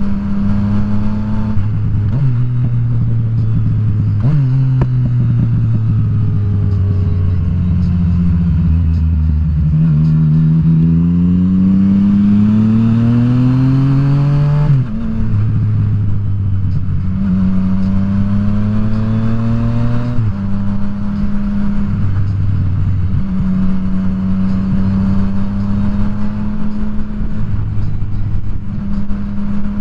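Yamaha FZ-09's 847 cc inline-three engine running under the rider. The engine note holds at a steady cruise, sinks as the bike slows, then rises steadily through a long pull until it drops sharply about halfway through, and settles back to a steady cruise with small rises and falls.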